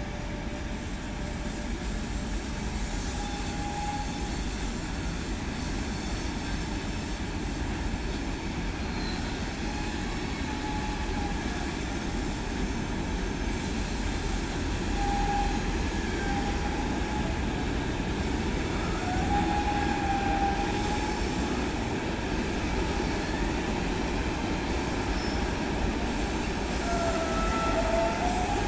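A train rolling past with a steady rumble that grows slightly louder, and short, high wheel squeals every few seconds.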